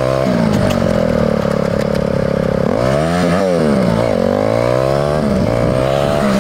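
Mini bike's small engine running under way, with steady loudness. Its pitch drops and climbs back twice, about three seconds in and again a second later.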